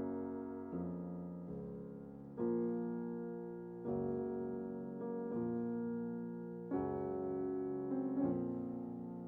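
Slow, soft piano music: sustained chords struck every second or so, each fading before the next.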